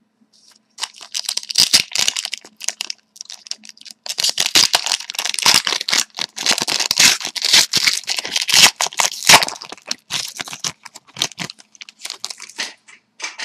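Foil trading-card pack wrappers being torn open and crinkled by hand, a dense run of crackling that starts about a second in.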